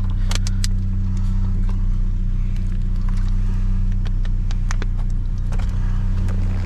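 A vehicle engine idling steadily, with scattered short clicks and knocks over it as items are moved around.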